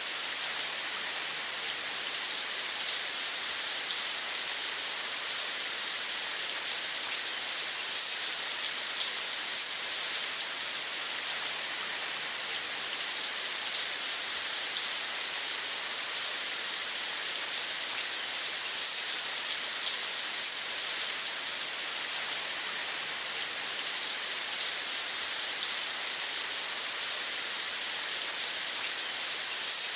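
Steady rain falling: an even hiss of many fine drops that does not change.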